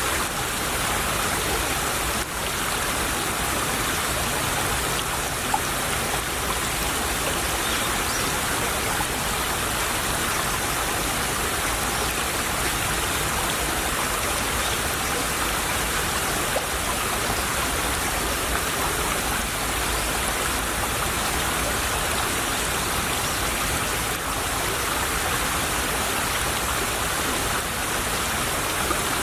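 A small stream babbling steadily over stones, an even rush of running water.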